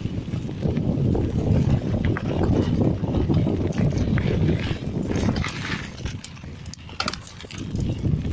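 Mountain bike riding over a rough dirt trail: tyres rumbling on the ground with a rapid run of clicks and knocks from the bike rattling over bumps, and wind buffeting the action-camera microphone. The rattle eases briefly a little past the middle.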